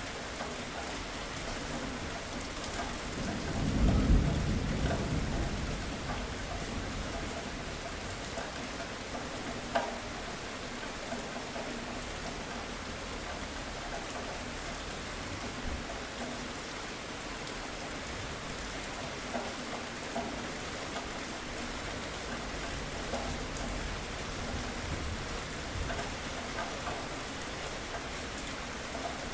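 Steady heavy rain pattering on surfaces, with a low rumble of thunder that swells about four seconds in and fades over the next two seconds.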